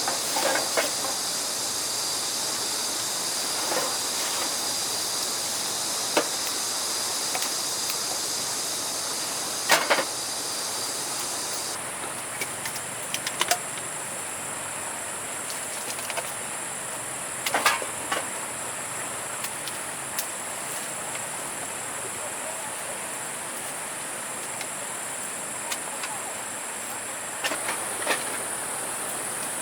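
Steady high-pitched insect chorus that shifts to a higher, narrower pitch about twelve seconds in, with scattered clicks and knocks over it.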